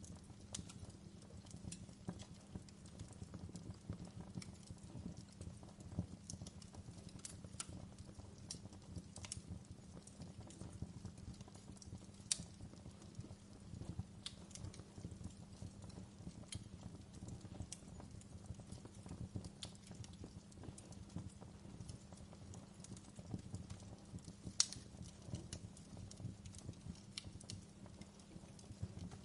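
Wood fire burning in a fireplace: a low, steady rumble of flames under irregular sharp pops and crackles, with two louder pops about twelve seconds in and near twenty-five seconds in.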